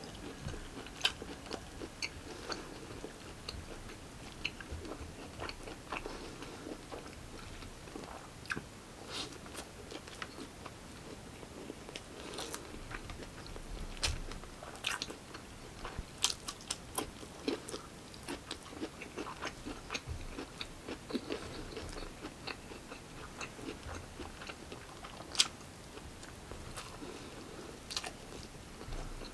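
Close-up chewing and lip-smacking of a man eating steak and rice, with irregular sharp mouth clicks throughout; one click about 25 seconds in is the loudest.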